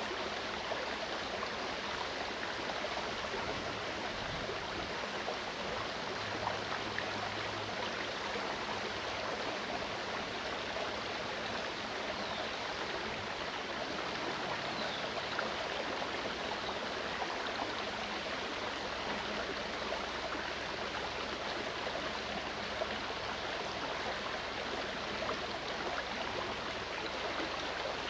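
Clear mountain stream running, a steady rushing, babbling flow of water.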